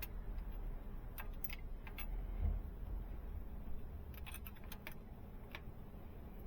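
Light metallic clicks and clinks of hand tools, wrench and feeler gauge, working on a diesel engine's valve adjusters while the valve lash is set to a light drag. There are a few scattered taps in the first two seconds and a quicker cluster about four to five seconds in.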